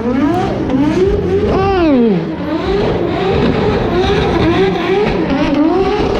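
Single-turbo Toyota 2JZ straight-six engine of a drift car revving hard, its pitch swinging up and down again and again under throttle. About a second and a half in it climbs high, then drops sharply just after two seconds.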